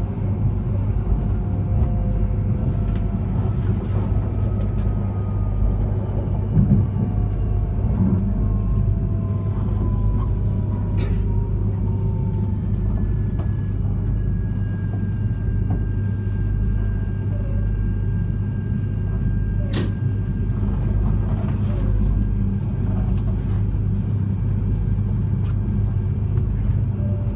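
Running sound inside a JR East E3 series 2000 Shinkansen car: a steady low rumble of the train on the rails, with the whine of its Hitachi IGBT VVVF inverter and traction motors gliding down in pitch as the train slows, then holding a steady high tone. A few sharp clicks stand out along the way.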